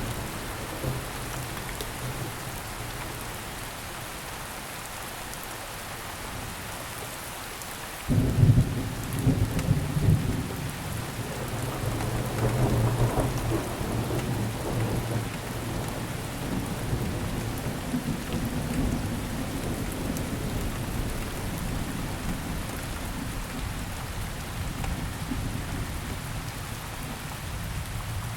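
Steady rain falling, with thunder: a sudden thunderclap about eight seconds in that rumbles on for several seconds and slowly fades.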